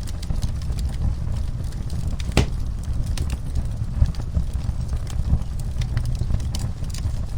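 Wood fire in a fireplace crackling over a steady low rumble, with scattered pops and one louder crack about two and a half seconds in.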